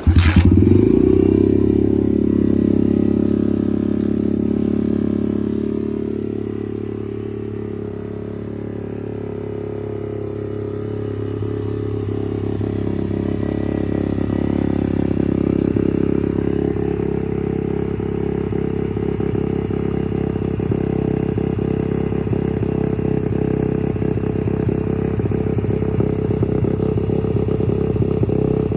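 2022 SSR 125 pit bike's single-cylinder four-stroke engine firing up at once on a cold kick start with the choke on, then running steadily at idle. The sound eases off a little several seconds in and builds back up.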